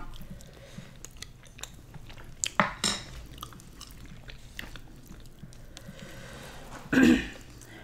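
Close-miked eating sounds: chewing and mouth noises, with small clicks and scrapes of wooden spoons and fingers on a metal sheet pan of rice and curry. A short vocal sound near the end.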